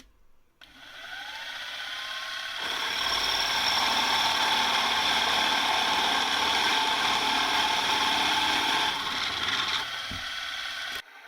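Milling machine spindle whining up to speed, then a 15 mm drill bit cutting into aluminium plate with a steady, loud grinding hiss for about eight seconds, stopping suddenly near the end.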